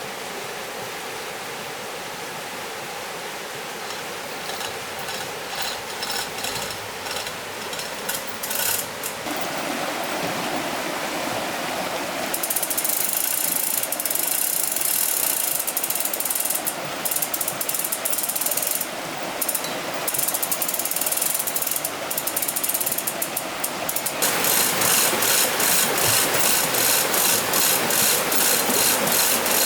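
A ratchet mechanism clicking over the rush of flowing water. The clicks start unevenly about four seconds in, grow louder and denser from about twelve seconds, and turn into fast, even clicking in the last few seconds.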